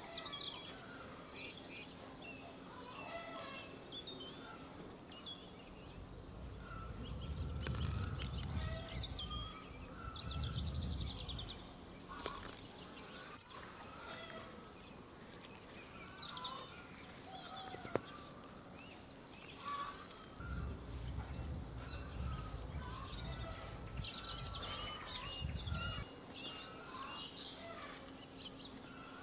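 Small songbirds chirping and singing on and off. Two stretches of low rumble come in, about six seconds in and again about twenty seconds in.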